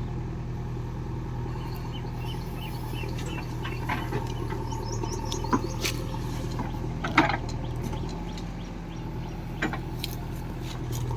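A diesel engine of farm machinery running at a steady, even speed, with a few sharp knocks and birds chirping over it.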